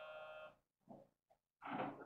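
A train departing: a steady electronic tone that stops about half a second in, then a short hiss near the end.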